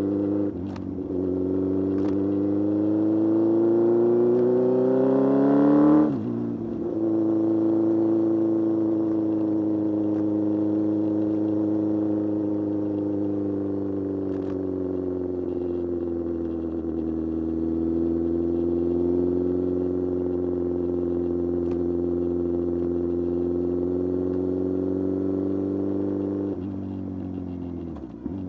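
Kawasaki Z1000 inline-four motorcycle engine under way. It revs up for about five seconds, drops sharply as it shifts up a gear, then holds a steady cruising note. Near the end it shifts or rolls off again.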